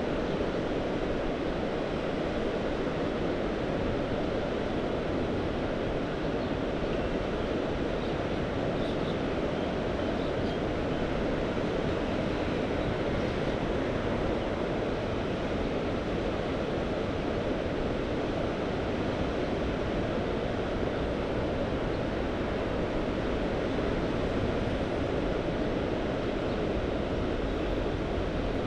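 Sea surf washing steadily, an even rushing noise with no single wave standing out, over some low wind rumble on the microphone.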